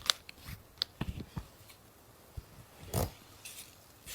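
Sparse, irregular sharp clicks and pops over a faint hiss, with the loudest pop about three seconds in.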